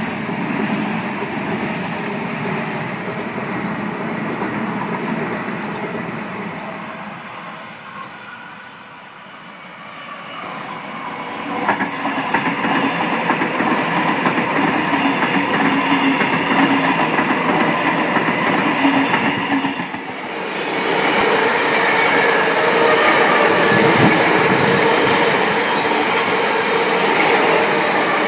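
Electric passenger trains passing at close range, a steady rumble and clatter of wheels on rail. It eases off about a third of the way in, builds again, dips briefly about two-thirds in, then runs on loud.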